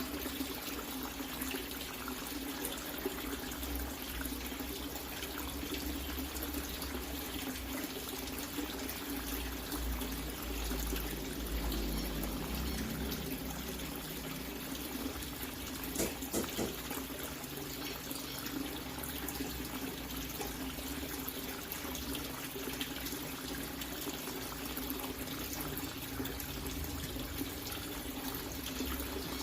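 Water running steadily and splashing into a water-filled tank, with a short knock about sixteen seconds in.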